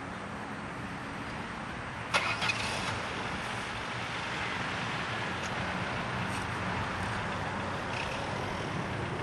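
Car running, a steady engine and road hum, with a sharp click about two seconds in.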